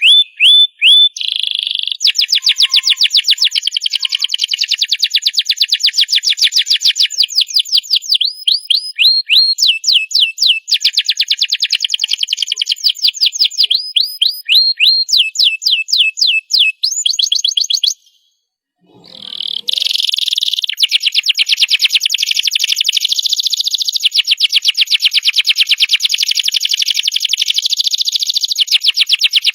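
Domestic canary singing long rapid trills: fast runs of repeated notes and sweeping whistled notes that change from one roll to the next. The song breaks off for about a second two-thirds of the way through, then carries on in long rolling trills.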